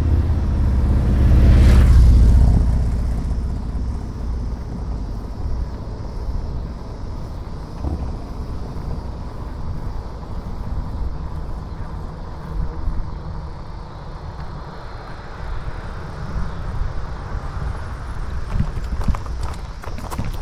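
Wind and road rumble on the microphone of a camera riding on a moving bike, with a louder rushing swell about two seconds in.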